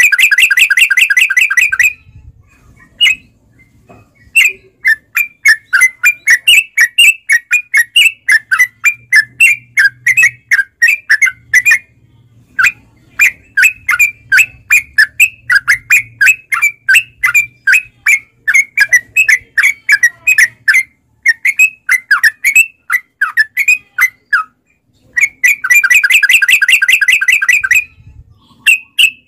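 Yellow-vented bulbul (trucukan) singing a long rapid series of short chattering notes, about three to four a second, with a short break midway. It opens and ends with a dense buzzy trill.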